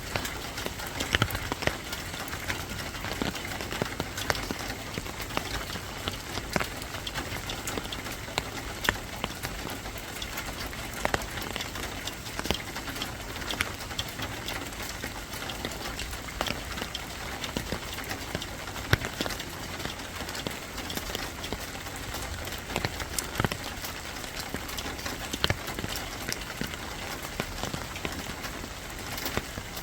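Steady rain falling on a hard surface, an even hiss with many scattered sharp drop ticks throughout.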